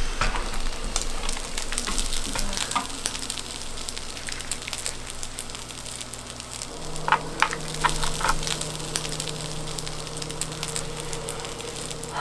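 Kimchi fried rice and melted cheese sizzling and crackling in pork fat in a waffle-patterned pan, with a few sharper clicks about two-thirds of the way through.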